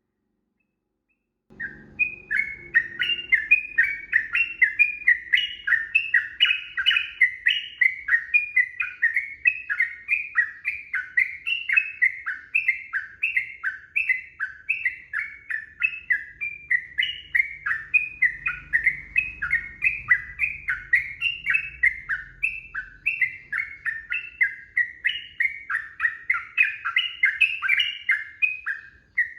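Yellow-vented bulbul (trucukan) song: a long unbroken run of quick, bubbly repeated notes, about three or four a second, starting about a second and a half in.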